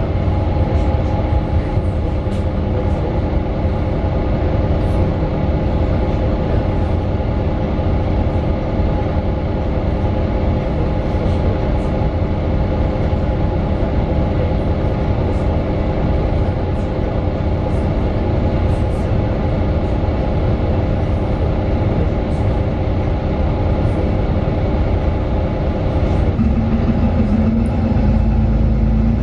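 Mercedes-Benz Citaro 2 city bus's OM 936 inline-six diesel and ZF Ecolife automatic driveline running steadily, heard from inside the passenger cabin. Near the end the engine note changes to a lower, steady tone and grows a little louder.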